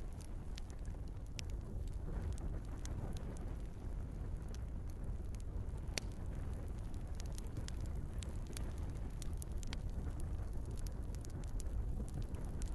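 Wood fire in a fireplace crackling: scattered sharp pops and snaps over a steady low rumble of the flames, with one louder pop about six seconds in.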